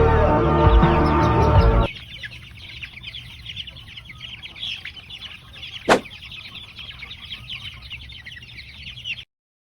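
Background pop music stops about two seconds in, leaving a flock of chicks peeping: many short, high cheeps overlapping one another. A single sharp click sounds about halfway through.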